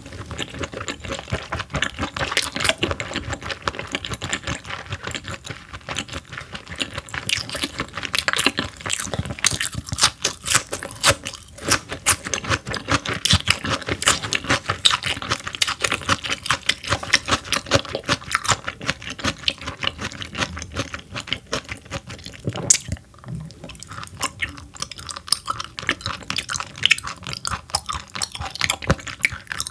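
Close-miked chewing of raw croaker sashimi: a continuous run of many small mouth clicks and smacks.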